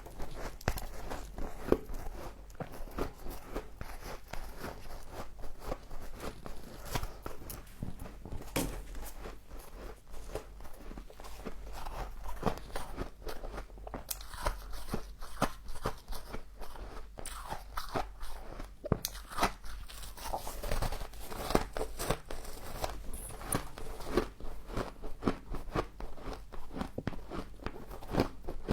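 Close-up crunching and chewing of frost from a humidifier: a dense, continuous run of crisp crunches as mouthfuls of icy frost are bitten and ground between the teeth.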